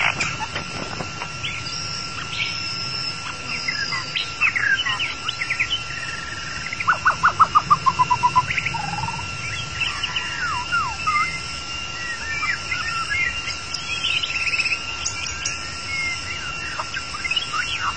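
White-rumped shama singing a varied song of whistles, chips and trills, with a fast run of falling notes about seven seconds in as the loudest part. A steady high drone runs underneath.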